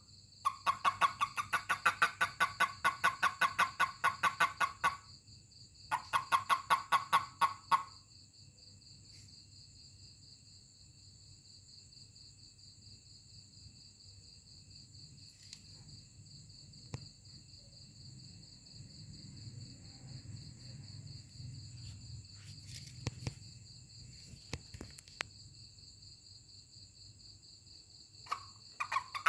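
A toad giving a fast pulsed chirping call, the release call toads make when handled, in two bursts: one of about four seconds, then one of about two seconds, before it stops. Later come faint rustling and a few light knocks from handling.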